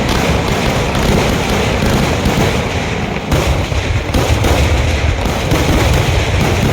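Fireworks barrage: a dense, unbroken run of firecracker bangs fired so fast they merge into a continuous crackling rattle. It eases briefly about three seconds in, then comes back louder.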